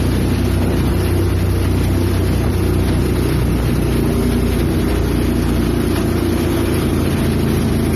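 Motorboat engine running at a steady speed, with wind noise.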